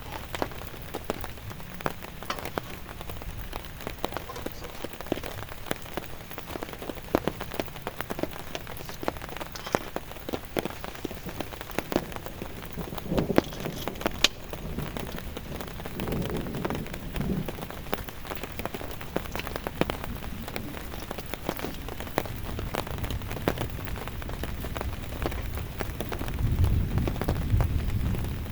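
Heavy rain falling, with many individual drops striking a surface close by in a dense patter. Low rumbles come and go, the strongest near the end.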